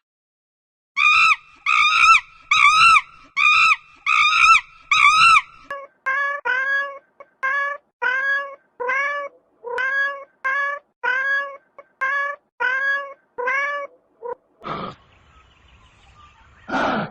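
Cat meowing over and over: six short, high, arching meows in quick succession, then about eleven lower meows at a steady pace, each rising in pitch. Near the end come two harsh, noisy calls.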